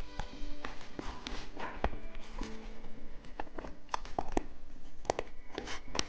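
Close-up eating sounds of hard, crunchy candy: irregular sharp clicks and crunches of candy being bitten and chewed near the microphone.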